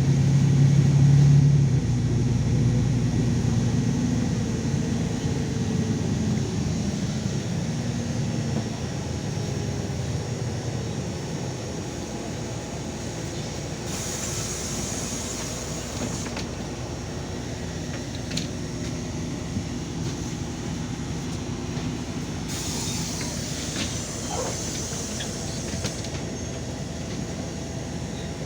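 LiAZ 5292 city bus heard from inside while riding: the engine note is loudest at first and grows quieter over the first dozen seconds, then runs on steadily. Two hissing bursts come in the second half, each lasting a few seconds.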